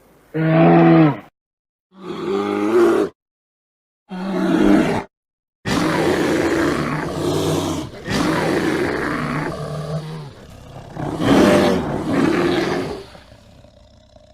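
Cattle mooing and bellowing, deep and drawn out, in several short cut-together calls separated by abrupt silences, then a longer stretch of rougher bellows from about six seconds in.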